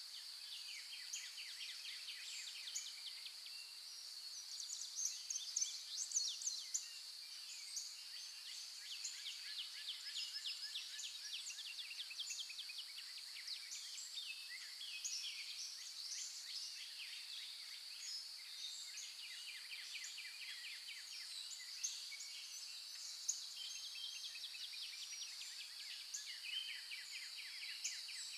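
Many birds chirping and trilling, with a steady high-pitched hum beneath them.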